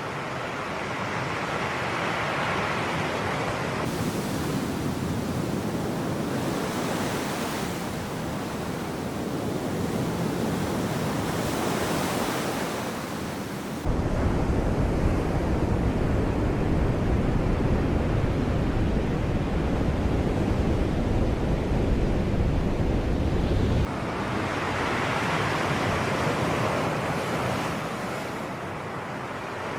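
Sea waves washing in and drawing back, the surf swelling and easing every few seconds. About halfway through, a heavier deep rumble sets in abruptly, runs for about ten seconds and stops just as suddenly.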